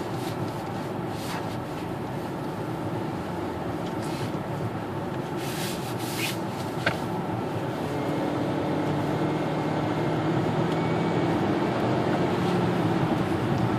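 Cabin sound of a 2013 Hyundai Santa Fe's 2.0-litre turbocharged four-cylinder engine accelerating, over road and tyre noise. The engine note grows louder and clearer about halfway through as the revs climb. There are a few brief clicks near the middle.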